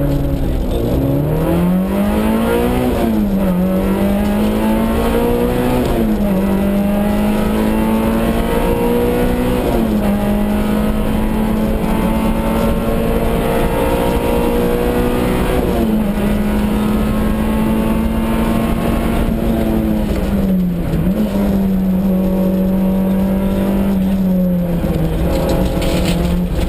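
Peugeot 106 Group N2 rally car's engine heard from inside the cabin, pulling hard through the gears at full throttle. The pitch climbs under load and drops sharply at each gear change, every few seconds.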